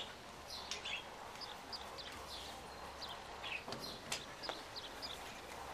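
Small birds chirping in short, repeated notes, with a few faint clicks near the middle.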